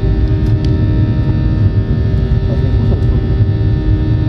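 Boeing 737-800 cabin noise during takeoff and climb, heard from a passenger seat. Its CFM56 engines give a steady, loud low rumble overlaid with a constant hum of several fixed tones.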